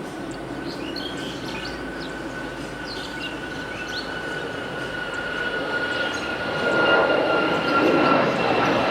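Boeing 787 Dreamliner jet engines whining, with a steady high whine that drifts slightly lower. A rushing engine rumble grows louder about two-thirds of the way through as the airliner comes closer.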